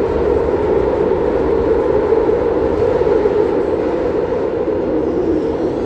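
Madrid Metro Line 6 train running in the tunnel, heard from inside the car: a steady, loud rumble of wheels and motors with a faint steady hum.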